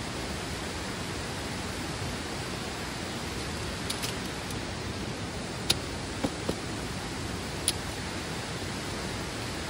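A steady rushing noise throughout, with a few sharp clicks and knocks from about four seconds in as a folding camp chair is handled and opened.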